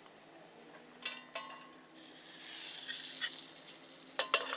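Cornmeal johnny cakes frying in shortening, sizzling. The sizzle swells about two seconds in, and a few sharp clicks come through it.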